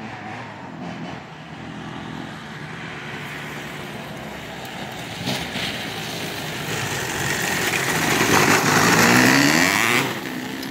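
Dirt bikes riding up and passing close by. Their engines grow steadily louder, and the pitch falls as they go past about nine seconds in.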